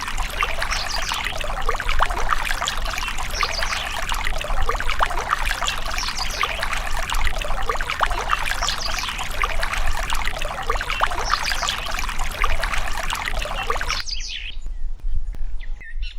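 Water pouring and splashing steadily, with a dense crackle of droplets. It cuts off abruptly near the end, giving way to a few bird chirps.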